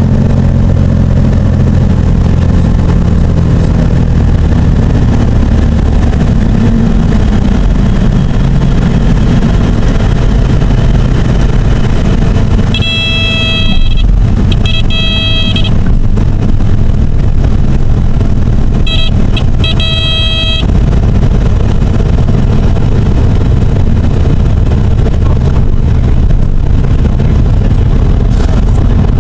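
Cabin drone of the Cessna 206's turbocharged six-cylinder piston engine and propeller, its note shifting lower about six seconds in. A high, horn-like warning tone sounds in two spells about halfway through, each about two seconds long and broken by short gaps.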